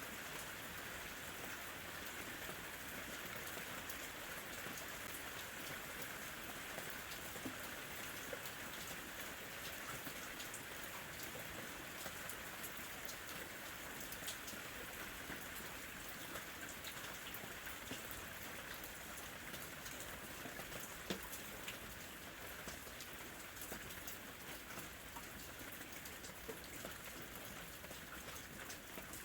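Gentle, steady rain falling: a continuous hiss dotted with many small drop ticks, easing slightly near the end.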